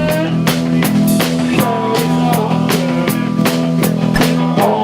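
Rock music: a drum kit beating a steady rhythm of about four hits a second over sustained bass and guitar notes.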